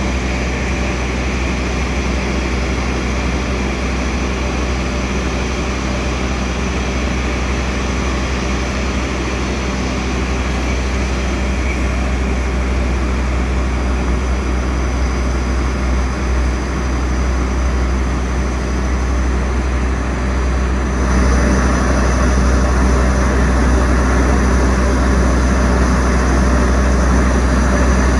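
Diesel-hauled long-distance passenger train pulling slowly out of the station: a steady low engine drone with a deep hum, growing louder about three quarters of the way through.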